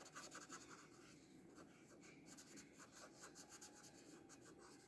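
Faint scratching of a Master's Touch acrylic paint marker's nib stroking across mixed media sketchbook paper.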